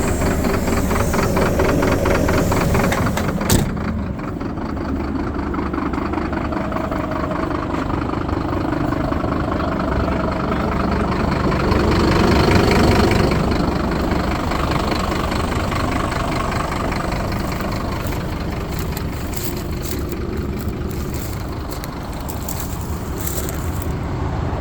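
Truck diesel engine running at idle with an even firing beat, revs swelling slightly about halfway through and settling again; a sharp click sounds once early on.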